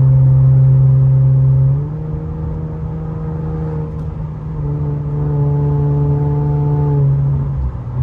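Infiniti Q50's twin-turbo V6 engine and exhaust droning at a steady cruise, holding one pitch. It drops in loudness and pitch a little about two seconds in, swells back up around five seconds, and eases off just before the end.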